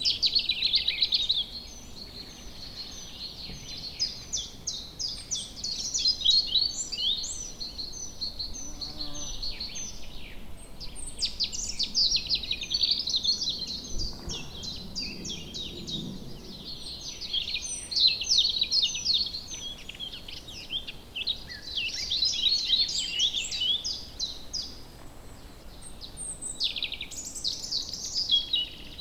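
Woodland birds singing, many overlapping rapid chirps and trills, over a faint steady background hiss.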